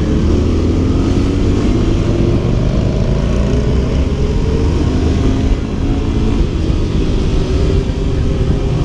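A vehicle engine running while under way, its pitch drifting slowly up and down with speed, over a heavy wind rumble on the microphone.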